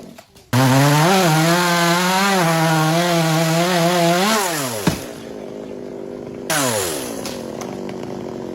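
Two-stroke chainsaw held at full throttle with its pitch wavering as it cuts into wood, then the throttle is released and the engine winds down to idle. About six and a half seconds in it is revved up again and its pitch falls away once more.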